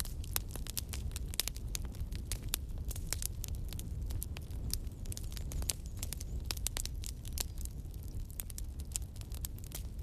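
Wood fire (campfire) crackling: many irregular sharp pops and snaps over a steady low rumble of burning.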